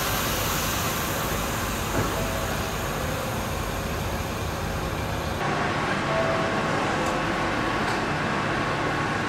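Steady mechanical noise of a Frecciarossa 1000 high-speed train standing at a station platform, with the hiss of the station around it. About five seconds in the sound shifts and the high hiss drops away.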